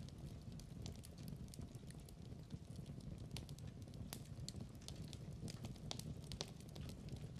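Fireplace crackling: wood burning with a steady low rumble and frequent sharp, irregular pops and snaps.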